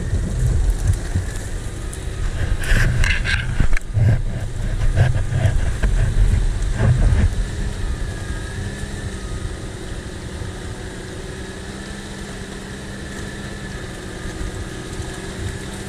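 Off-road 4x4 engine running under load, with a few sharp knocks and cracks about three to four seconds in, then easing off to a steady idle about halfway through.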